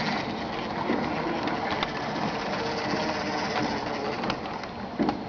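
HO-scale model trains running on the layout: electric locomotive motors whirring steadily, with scattered clicks of wheels over rail joints.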